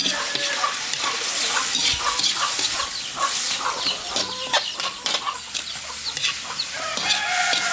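Chickens clucking: a run of short, quick calls over a steady high hiss.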